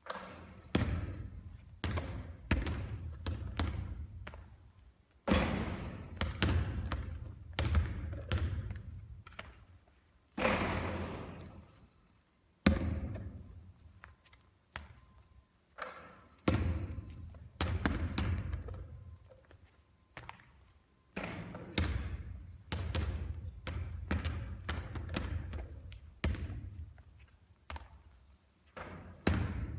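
A basketball being shot and bouncing on a court over and over: a string of irregular sharp thuds, sometimes several a second, each trailing off in a short echo.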